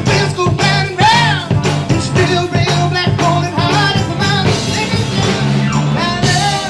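Rock band playing with a lead vocal: bass line, drum kit and a sung melody over a steady beat.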